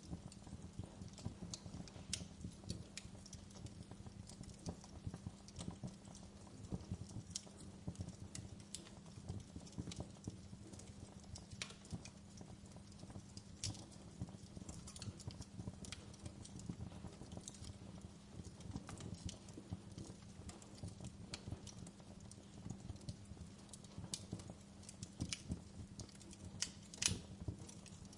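Wood campfire crackling and popping: irregular sharp pops over a low steady rumble, with a louder burst of pops near the end.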